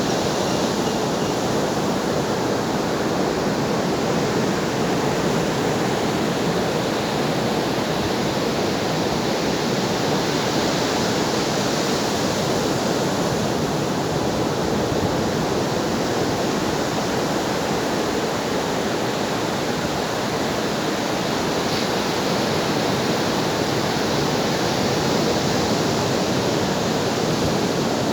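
Ocean surf: waves washing continuously onto a shore, a steady dense hiss that swells gently now and then.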